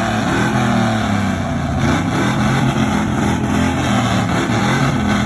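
A vehicle's engine revving loudly and continuously, its pitch repeatedly climbing and dropping.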